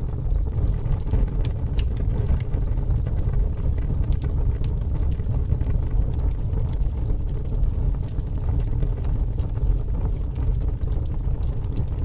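Fire burning with a steady low rumble of flames and frequent sharp crackles and pops scattered irregularly throughout.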